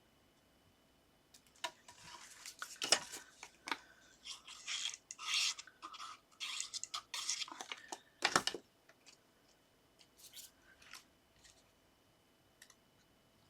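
Card and paper being handled and rubbed down: irregular scraping and rustling with small clicks, and a sharp tap about eight seconds in, then only a few faint clicks.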